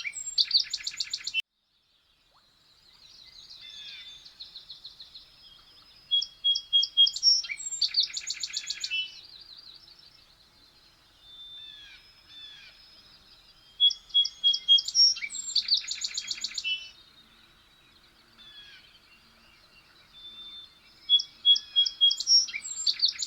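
A songbird singing the same short phrase over and over, about every seven or eight seconds: a few clear notes, then a fast, loud, buzzy trill. Softer bird calls come in between the phrases.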